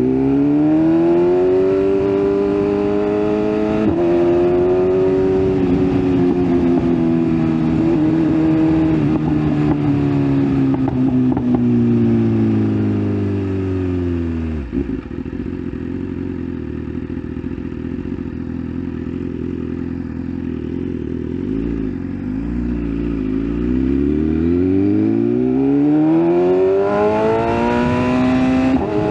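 BMW S1000RR's inline-four engine under way: it revs up and shifts up a gear early on, then the revs fall slowly as it rolls off. About halfway through the engine drops to a low, uneven run for several seconds, then revs rise again and it shifts up once more near the end.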